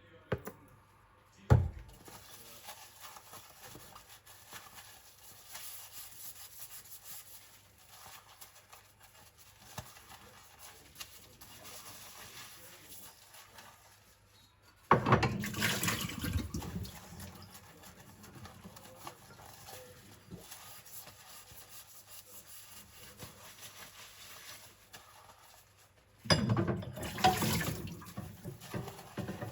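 Water from a kitchen tap running over ceramic bowls in a sink as they are pre-rinsed. There is a sharp knock about a second and a half in, and two louder gushes of water, one about halfway through and one near the end.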